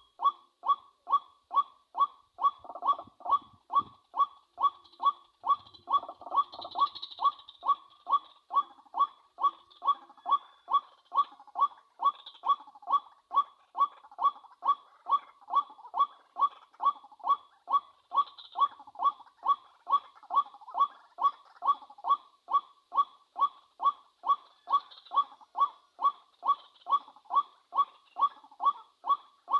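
A recorded bird call played through a small speaker as a trap lure: one short note repeated at a steady, even rhythm, about two a second.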